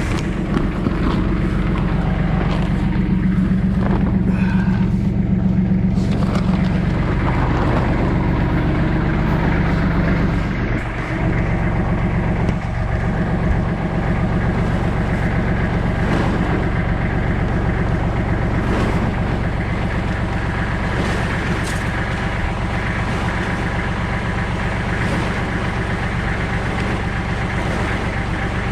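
Kubota tractor's diesel engine running steadily, a little louder in the first few seconds, with a brief dip about ten seconds in.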